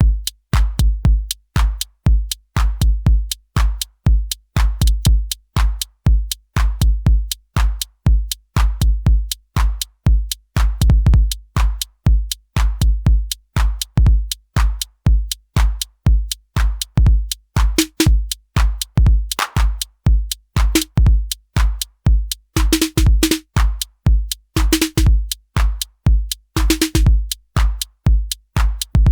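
Elektron Syntakt drum machine playing a programmed electronic drum pattern: a steady deep kick about two and a half times a second with ticking hi-hats. From about seventeen seconds in, brighter snare- or clap-like hits and a short pitched tom-like tone join the pattern.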